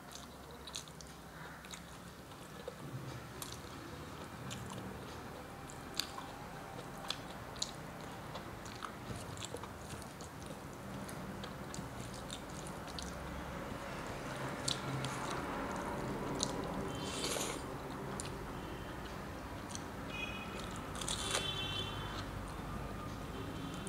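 A person chewing and smacking her lips while eating rice and vegetable curry with her fingers, with many sharp wet mouth clicks scattered throughout.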